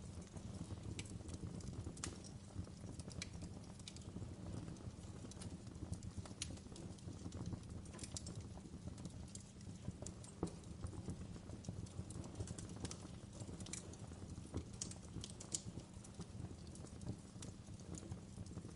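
Fireplace crackling: irregular sharp pops and snaps over a steady low rumble of the fire.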